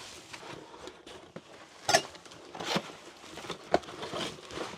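New plates being unpacked and handled, with a few sharp clinks and clatters against a soft rustle; the loudest clink comes about two seconds in.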